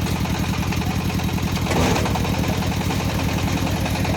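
Concrete mixer's engine running steadily with a rapid, even chugging beat. A brief louder noisy rush comes about two seconds in.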